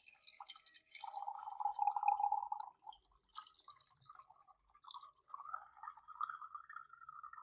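Liquid dripping and trickling, its pitch rising slightly over the last few seconds.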